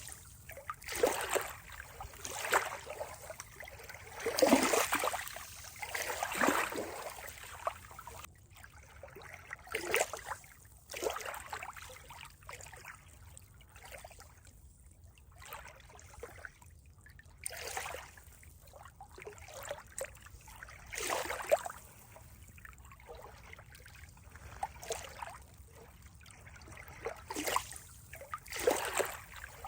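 Water trickling and splashing in irregular surges every second or two, with quieter lulls between them.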